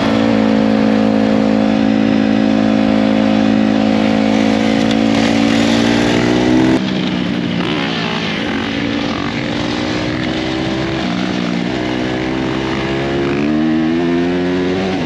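Dirt bike engine running at a steadily held speed that sags slightly, then breaks off into a rougher stretch. About twelve seconds in the revs rise and hold again near the end.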